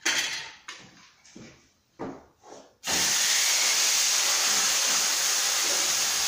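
A few short handling clatters, then about three seconds in a loud, steady sizzle starts suddenly as marinated chicken breast goes into a hot pan and begins pan-frying.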